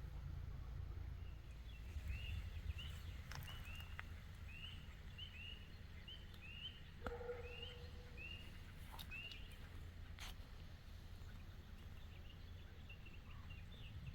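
A songbird calling repeatedly: short arched chirps, about two a second, that stop a few seconds before the end, over a faint steady low rumble.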